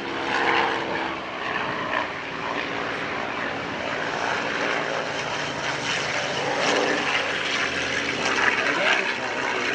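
Piston-engined WWII warbird flying past, a steady propeller-engine drone with a rushing noise that swells slightly in the second half.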